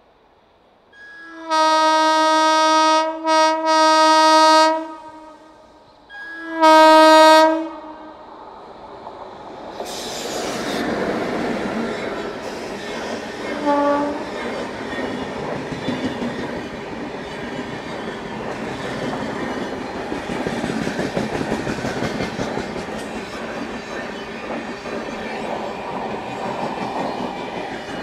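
Indian Railways locomotive air horn sounding two long blasts, the first briefly broken. Then a train passes at speed with a steady rumble and clickety-clack of wheels on rail joints, and a brief high tone about 14 seconds in.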